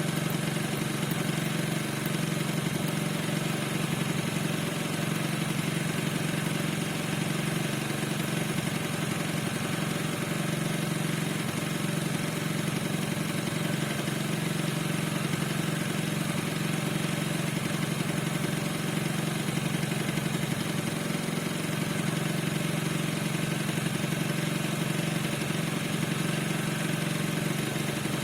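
Piaggio NRG 50 scooter's two-stroke single-cylinder engine idling steadily, with a squeak whose cause the owner cannot find.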